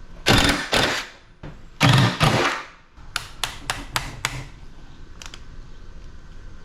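Sharp knocks and clanks on the metal of an air-conditioner unit being dismantled for scrap, like hammer blows: four heavy strikes in the first two and a half seconds, then a quicker run of about six lighter ones, then only a faint knock or two.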